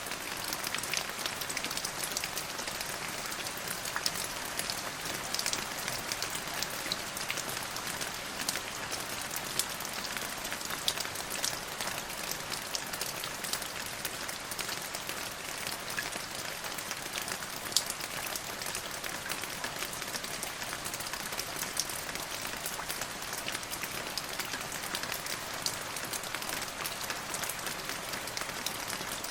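Steady rain falling on a hard surface, a dense hiss dotted with many sharp drop ticks.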